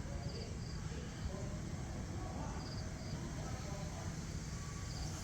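Outdoor morning ambience: a steady low rumble of wind and distant background, with short high chirps repeating every second or two and faint scattered sounds in the middle range.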